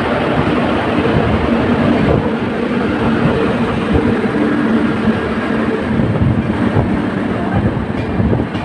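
Pawan Express passenger train running on the rails: a loud, steady rumble of wheels and coaches.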